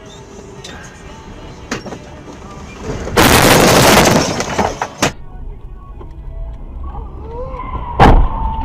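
Car collision heard from inside a car on a dashcam: a loud crash lasting about a second starts about three seconds in, followed by a sharp bang about five seconds in and another near the end.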